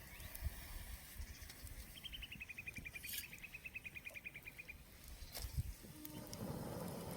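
A bird's rapid trill of short, evenly spaced notes, about nine a second, stepping down a little at the start and then holding one pitch for close to three seconds. It sounds over a faint outdoor background with a few scattered clicks.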